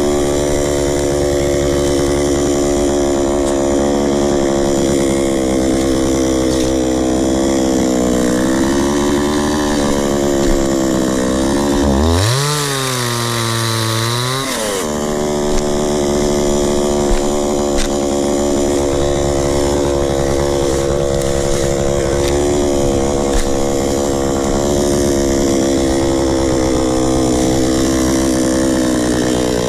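Two-stroke chainsaw cutting through a log, its engine note sagging and recovering under load. About twelve seconds in it revs up sharply to a higher, brighter pitch for a couple of seconds, running free out of the cut, then drops back to cutting.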